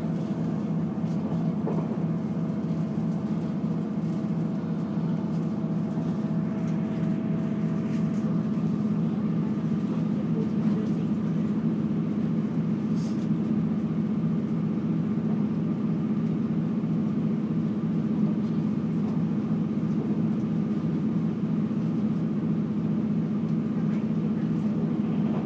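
Passenger train running at speed, heard from inside the carriage: a steady, even low rumble with faint steady tones above it.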